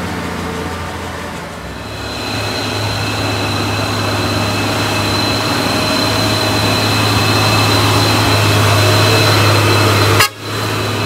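Heavy truck's diesel engine running under load as it climbs, a steady low drone that grows louder, with a high steady whine joining about two seconds in. The sound breaks off sharply about ten seconds in.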